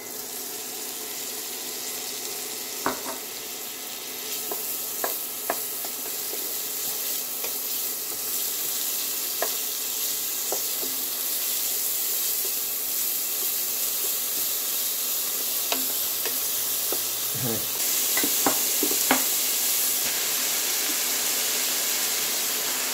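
Chopped garlic and shredded dried pollock sizzling in sesame oil in a stainless steel pot, stirred with a wooden spatula that scrapes and clicks against the pot now and then. The sizzle grows louder, stepping up about three quarters of the way through.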